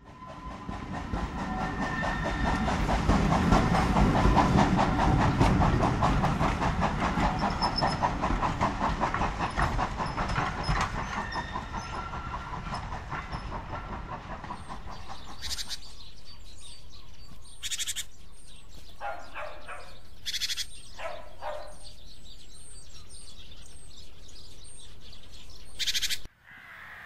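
Train running over jointed track, a rapid clickety-clack of wheels with some steady tones above it, fading away after about fourteen seconds. A quieter stretch follows, with a few sharp clicks and short bird calls.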